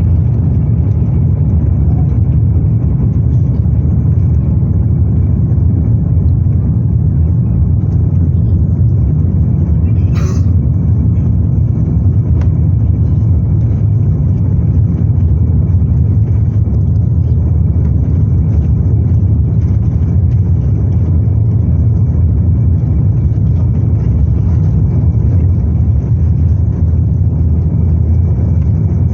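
Cabin noise inside an Airbus A350-900 airliner: a loud, steady rumble from its Rolls-Royce Trent XWB engines and the airflow, with a faint steady high whine. A brief higher-pitched sound comes about ten seconds in.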